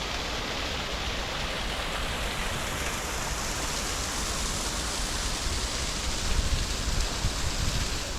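Steady rush of rain-swollen running water, growing a little louder and more uneven near the end.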